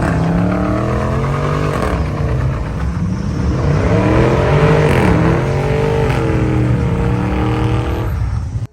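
Car engine revving through a loud exhaust, its pitch climbing and dropping several times. It cuts off suddenly near the end.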